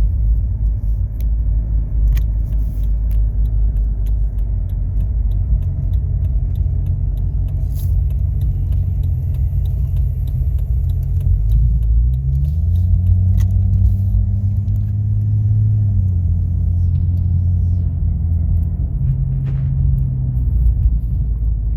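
Jeep engine and road rumble heard from inside the cabin while driving: a steady low drone whose engine note rises about twelve seconds in, holds for a few seconds, then falls back.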